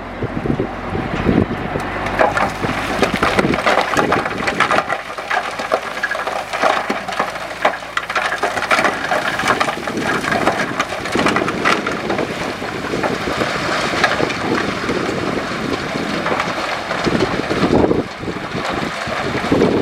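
Loose rock and stones crunching and clattering against each other as heavy earthmoving machinery moves a load, over a heavy diesel engine running at a steady low pitch.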